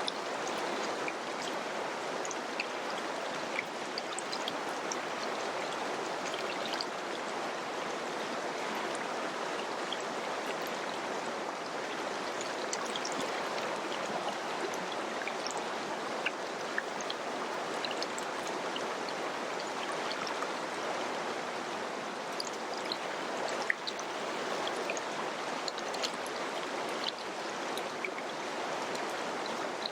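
Mountain river flowing over rocks: a steady rushing of water with small splashes and trickles scattered through it.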